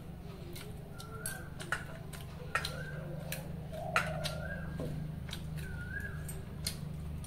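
A bird calling over and over, a short rising note that levels off, about five times, roughly every one and a half seconds. Small sharp clicks are scattered between the calls.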